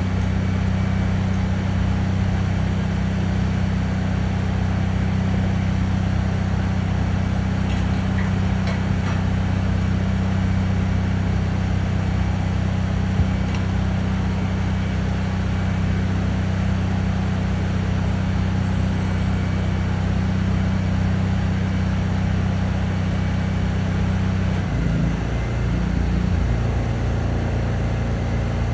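Truck engine running steadily at idle, its note changing near the end.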